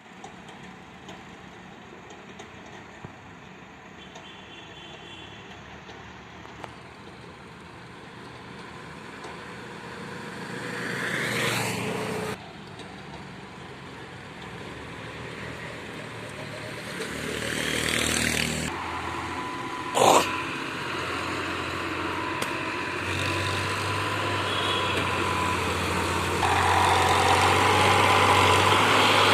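Farmtrac 60 EPI tractor's diesel engine running under a heavy trolley load, with two louder swells that rise in pitch, a single sharp bang about 20 seconds in, and the engine getting louder near the end.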